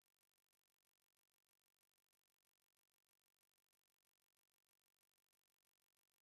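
Silence: the audio drops out completely.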